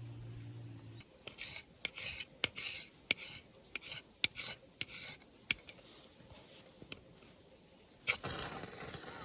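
Repeated short scraping strokes, about two a second, with a longer scrape near the end. A low hum in the background stops about a second in.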